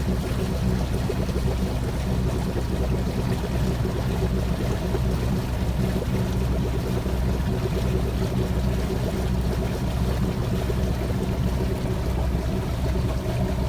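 Sailboat's engine running steadily under way, a constant low drone, with water rushing along the hull.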